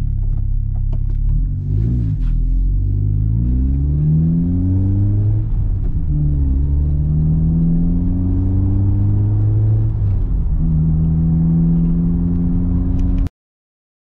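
Honda Civic Type R's turbocharged K20C 2.0-litre four-cylinder accelerating, heard inside the cabin: the engine note climbs in each gear and drops at two upshifts, then holds steady at cruise. The sound cuts off abruptly near the end.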